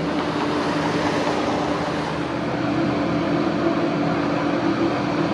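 Steady vehicle running noise with a constant low hum, even throughout.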